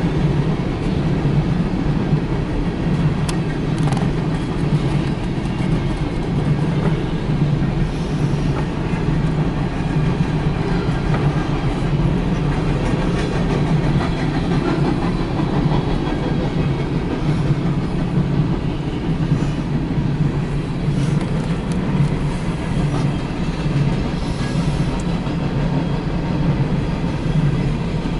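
A CSX rail train's flatcars and gondolas rolling past at close range: a steady rumble of steel wheels on the rails, with some clickety-clack.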